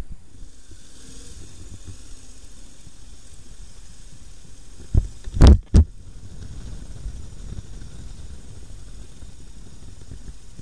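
Steady low rumble of wind and road noise from a motorcycle on the move, with three loud thumps in quick succession about halfway through.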